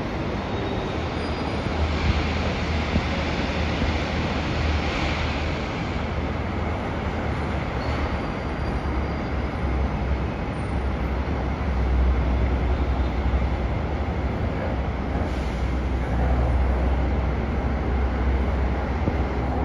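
São Paulo Metro Line 15 monorail train running: a steady low rumble with rolling noise, swelling a few seconds in and again past the middle.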